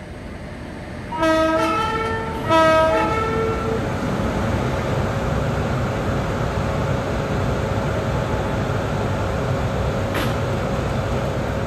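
Indian Railways WAP-7 electric locomotive sounding two blasts of its multi-tone horn, the second longer, then rumbling slowly along the track with a steady hum. A single sharp click comes near the end.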